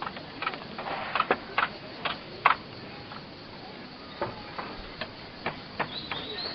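An irregular series of sharp clicks and knocks, about a dozen over several seconds, over a faint steady background.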